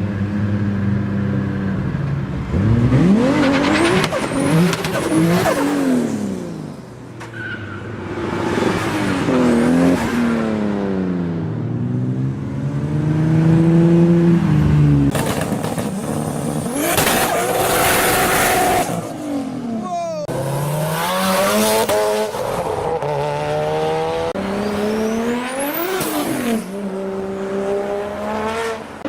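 Car engines revving hard in a string of short clips, the pitch climbing and dropping again and again, with a loud, hissy stretch a little past the middle.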